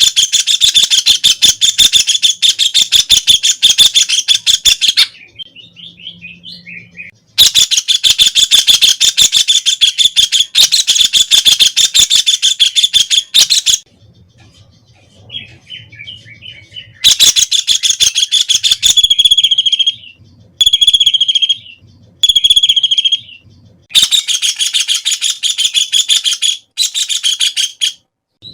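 White-throated kingfisher calling in long, rapid rattling trills that come in several bouts of a few seconds each, with softer scattered chattering notes in the pauses between bouts.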